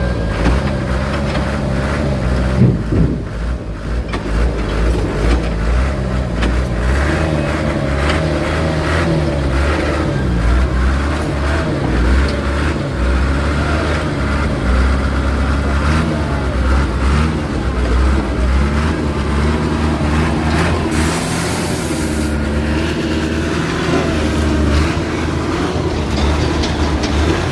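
Heavy diesel vehicle engines running under load, their pitch rising and falling. A short hiss comes about three-quarters of the way through.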